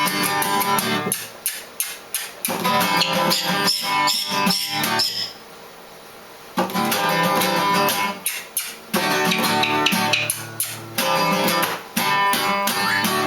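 Guitar strummed in chords. The playing stops briefly about five seconds in, then starts again.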